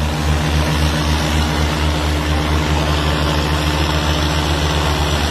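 John Deere tractor diesel engine running with a steady, even low throb.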